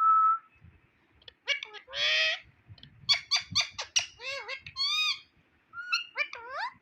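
Indian ringneck parrot calling. It gives a short steady whistle, then a long harsh squawk and a run of rapid chirps. The later notes bend up and down in pitch.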